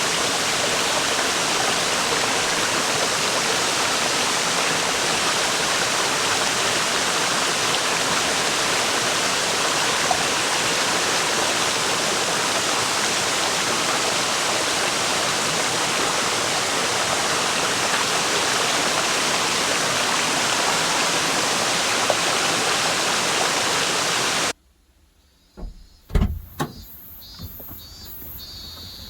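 River water rushing steadily over rocks. It cuts off abruptly near the end, leaving a much quieter stretch with a few sharp knocks.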